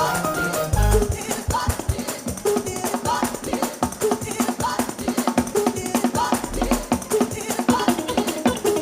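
Live church band playing up-tempo music: fast, steady drumming with bass hits and a melodic instrument line, with some singing.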